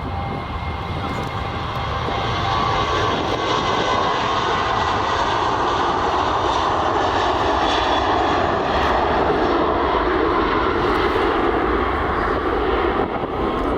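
Airliner engines passing: the roar builds about two seconds in, holds steady, and eases off near the end.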